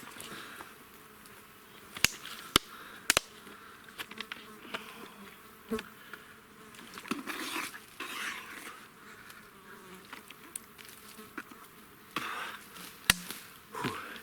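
Flies and other insects buzzing close by in the forest. Several sharp clicks and cracks and brief rustling are heard, the loudest click near the end.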